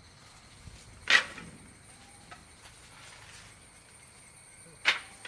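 Two sharp wooden knocks about four seconds apart as cut sticks are knocked against each other or against the ground while a stick table is put together. Cicadas drone faintly and steadily in the background.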